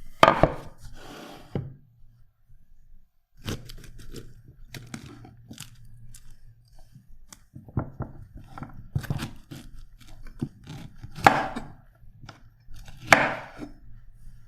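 Food-preparation handling: irregular knocks, taps and crunchy cutting strokes, with three louder crunching strokes, one just after the start and two near the end.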